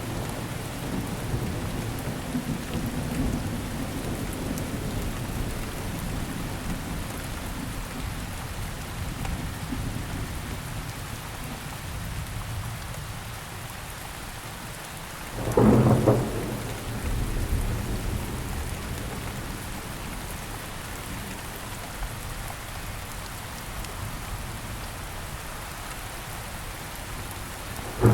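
Steady rain with a low, fading rumble of thunder, then a sudden loud thunderclap about halfway through that rumbles on for a couple of seconds.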